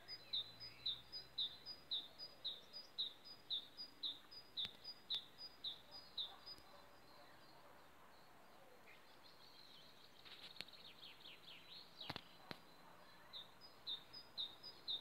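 A songbird calling with a steady run of short, high chirps, about two a second, that pauses midway and starts again near the end; another bird gives a brief falling trill about ten seconds in.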